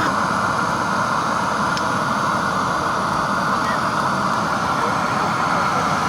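Gas burner's flame running as one loud, even, unbroken rushing noise, used to light a rain-soaked bonfire.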